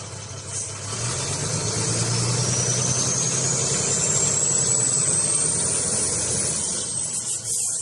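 Diesel engine of a HOWO 6x4 dump truck running, with the engine growing louder about a second in and holding there. A thin high whistle rises steadily in pitch over several seconds, then dips, and the sound cuts off abruptly just before the end.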